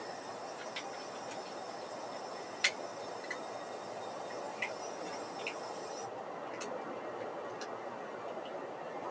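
Steady background noise with a handful of scattered sharp ticks at uneven intervals, the loudest about two and a half seconds in.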